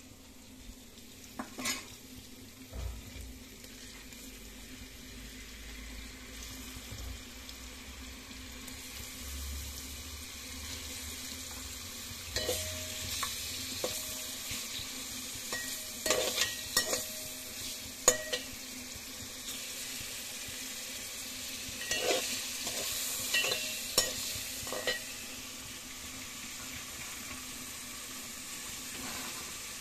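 Paneer pieces sizzling as they fry in oil in a metal pan, with the hiss building after the first few seconds. A perforated steel spoon clinks and scrapes against the pan in clusters through the middle.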